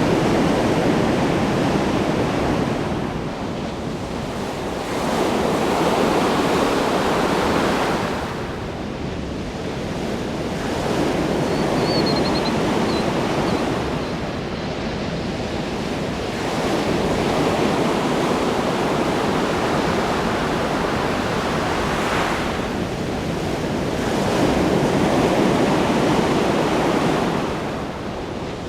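Ocean waves breaking and washing in, a steady rush that swells and falls back about every five or six seconds.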